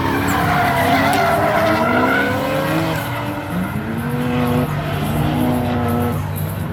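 Drift cars sliding through a corner, engines revving at high rpm with tyres squealing, several engine notes rising and falling at once.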